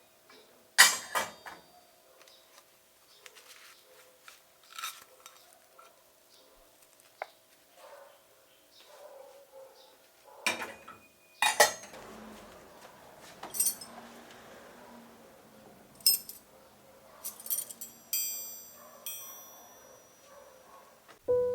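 Dishes and cutlery being handled: scattered clinks and knocks, with a bright ringing clink about eighteen seconds in.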